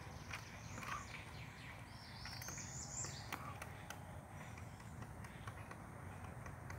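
Faint, irregular taps and knocks of pileated woodpeckers pecking and prying bark off a pine trunk, with a brief high bird call about two seconds in.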